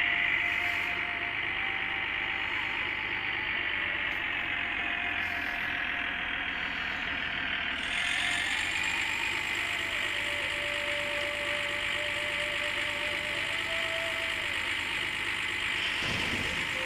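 Small motor running steadily with a high, even whine; the sound shifts slightly about halfway through.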